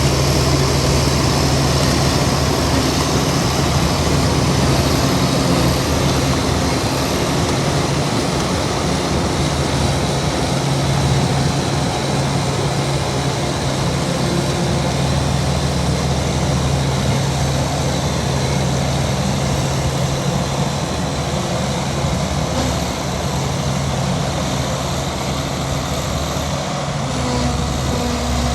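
Heavy diesel engine of earthmoving machinery running steadily with a low, even note and a thin high whine above it.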